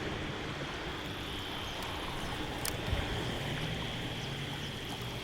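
Steady rush of flowing creek water, with a light tap about three seconds in.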